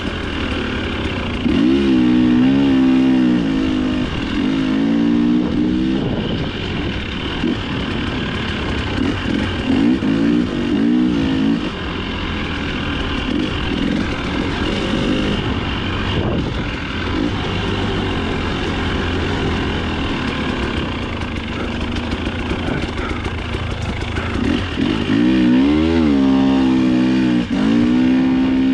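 Dirt bike engine revving up and backing off in repeated surges, its pitch climbing and falling, strongest a couple of seconds in and again near the end, running lower and steadier in between.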